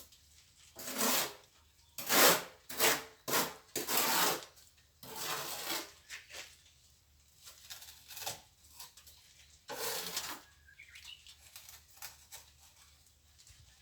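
Plastering trowel scraping and spreading mortar, in a series of irregular strokes that each last under a second. The strokes come thickest in the first six seconds and fall off after that.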